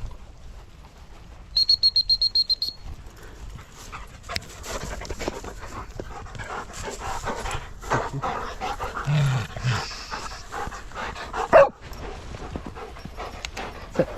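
Dogs panting and moving about. About a second and a half in comes a quick run of about ten short, high-pitched pips, and a single short, loud sound comes near the end.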